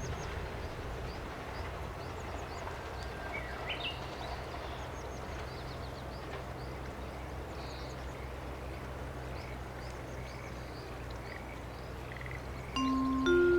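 Outdoor ambience: birds chirping over a steady low hum and a faint background hiss. Near the end, mallet-percussion music begins.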